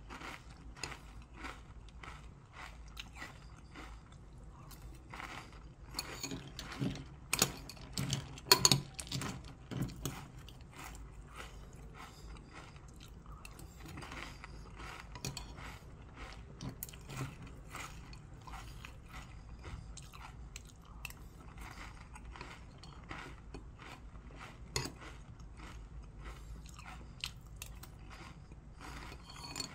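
Close-up chewing of crunchy chocolate cereal squares in milk: a steady run of small crisp crackles, loudest about seven to nine seconds in.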